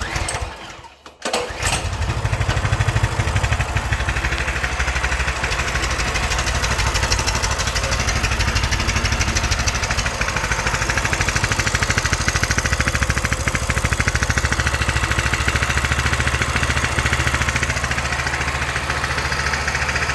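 Coleman CT200U-A mini bike's single-cylinder four-stroke engine being started, catching about a second and a half in and then running steadily at idle.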